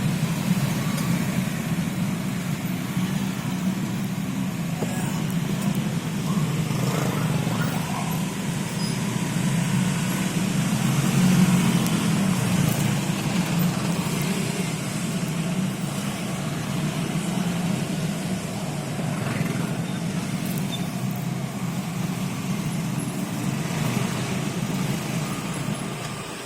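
A vehicle engine running steadily with a low, even drone; it rises slightly for a moment about halfway through.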